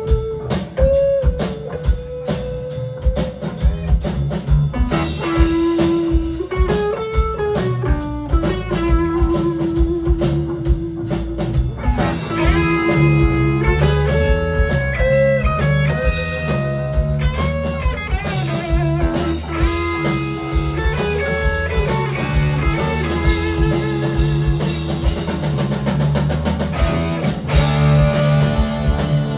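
A band playing an instrumental: a lead electric guitar line with held, wavering notes over bass and drum kit.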